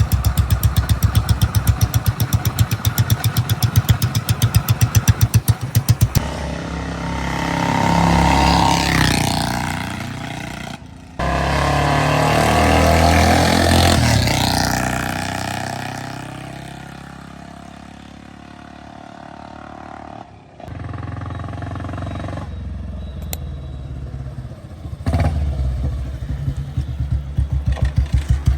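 Old-model cast-iron Royal Enfield Bullet single-cylinder engine, fully warmed up on a test ride: it thumps at idle, then revs up and down as the bike is ridden, with its pitch rising and falling, and settles back to steady idle thumps near the end.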